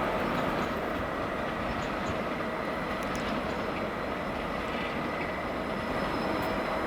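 A train running past on the tracks: a steady rumble with a faint, steady high whine.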